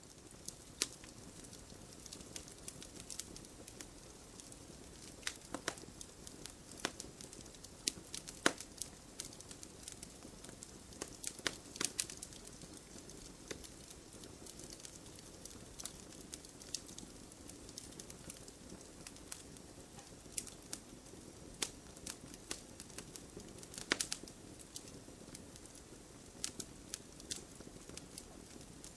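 Wood fire burning with a soft steady hiss and irregular crackles and sharp pops, a few of them louder.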